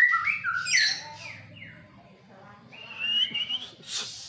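Murai songbird singing: a loud run of quick whistled chirps and glides in the first second, then a quieter whistled phrase about three seconds in. A sharp click near the end.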